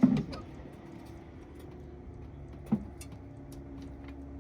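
Car being let down by a floor jack onto jack stands: a heavy thump at the start as the weight settles, a sharp knock a little past halfway, and a faint steady hum underneath.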